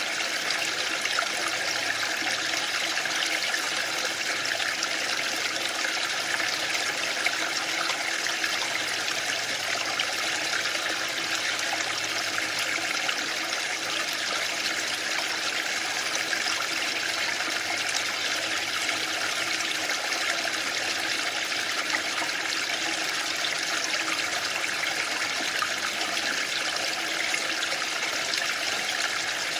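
Waterfall: a steady rush of falling water, even and unbroken, mostly in the higher hiss range.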